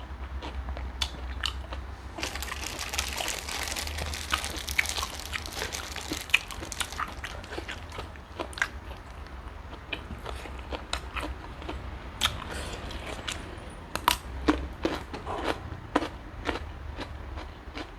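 A person eating close to the microphone: chewing, biting and crunching, with many sharp clicks and smacks, over a steady low hum.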